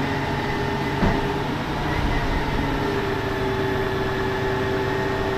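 Recycling collection truck's engine running with a steady hum, with a single knock about a second in.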